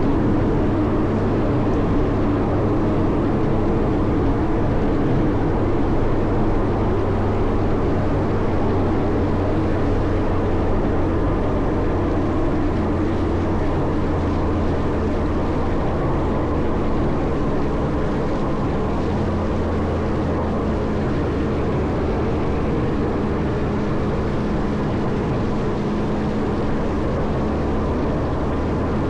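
Caterpillar 140M motor grader's diesel engine running steadily under load while plowing snow, its note shifting slightly about two-thirds of the way through.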